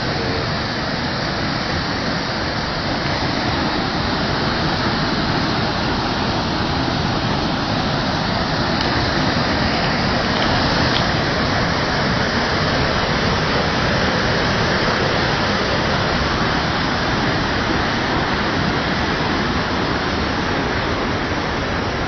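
A waterfall on a river in flood, the swollen water pouring over the falls in a loud, steady rush.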